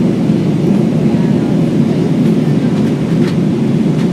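Steady low engine and airflow noise heard inside the cabin of an Airbus A320 in flight shortly after takeoff.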